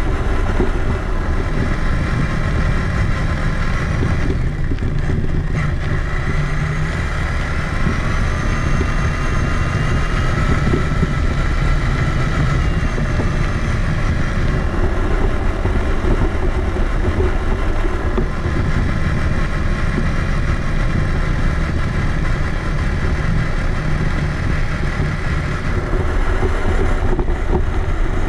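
Traxxas Summit RC monster truck driving, heard from a camera riding on it: a dense, steady rumble and rattle from the chassis and drivetrain, with a thin electric motor and gear whine that rises and falls in pitch as the speed changes, most clearly about a quarter to halfway through.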